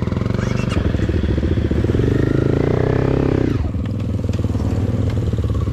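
Motorcycle engine running steadily, revving up about two seconds in, holding briefly and dropping back just past the middle.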